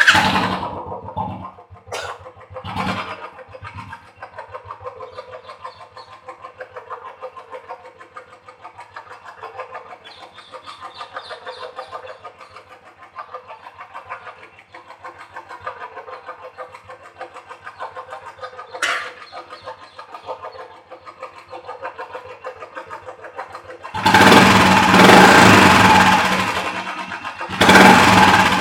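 Royal Enfield Classic 350 single-cylinder engine running with a fast, even tik-tik ticking from the valve train: tappet noise, which the owner says is still there after a mechanic's check. It gets much louder for the last few seconds.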